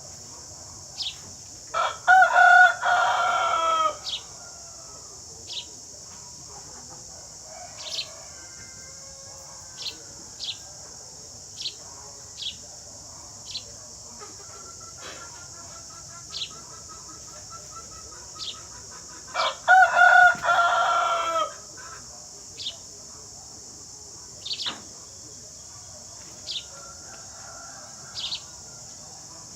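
Sparrows giving short, single high chirps every second or two, with a rooster crowing twice, each crow about two seconds long and the loudest sound. A steady high-pitched hiss runs underneath.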